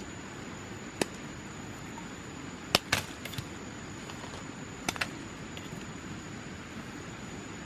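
Five sharp knocks: a single one about a second in, then two quick pairs around three and five seconds in. They sit over a steady hiss with a thin, high, steady tone.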